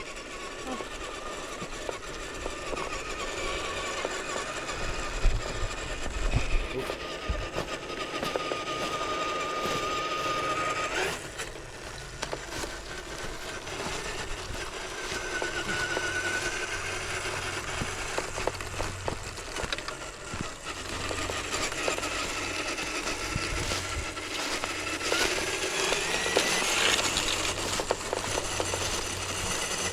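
Electric motor and gearbox of an RC4WD TF2 radio-controlled scale crawler whining as it drives, the pitch steady for a while and then rising near the end, with scattered clicks and crunches.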